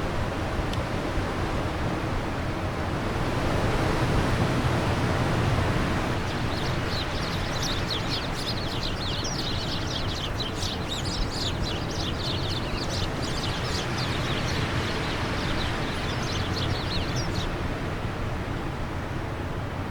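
Steady rushing wind. From about a third of the way in until near the end, a bird twitters in quick, rapid high chirps.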